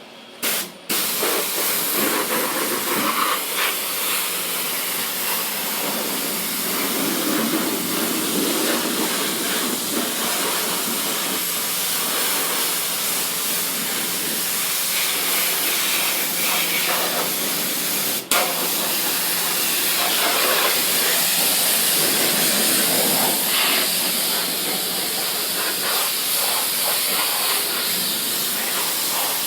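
High-pressure water from a car-wash spray wand, a steady hiss that starts about a second in, with one brief break a little past halfway.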